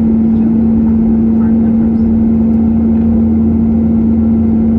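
Airbus A321-231's IAE V2500 engines and airflow in flight: a steady, even rushing noise with a constant low hum.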